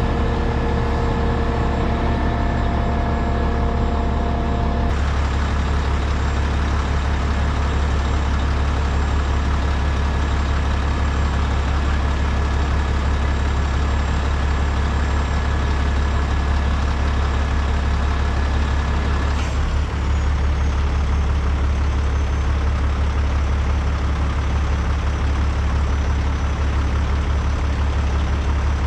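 Rotator tow truck's diesel engine running steadily, a heavy low drone. A fainter higher whine over it changes abruptly about five seconds in and again near twenty seconds.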